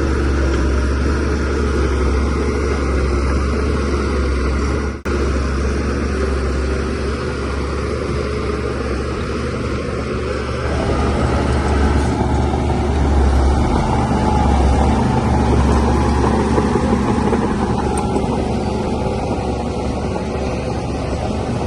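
DH17C3 bulldozer's diesel engine running steadily with a heavy low rumble, growing louder for a few seconds past the middle. The sound drops out for a moment about five seconds in.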